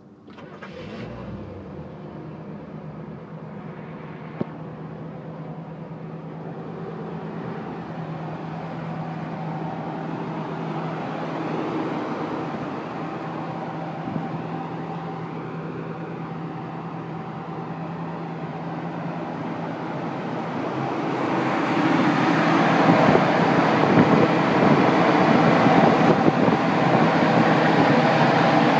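1959 Chevrolet Brookwood's engine started with the key, catching about a second in, then idling steadily. From about two-thirds through it is heard louder and closer, under the open hood.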